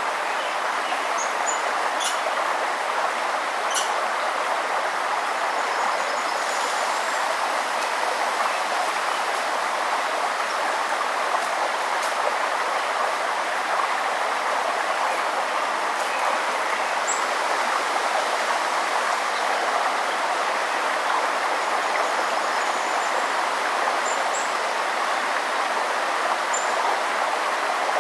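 Forest river or stream rushing steadily, with a few brief, faint, high bird chirps scattered over the top.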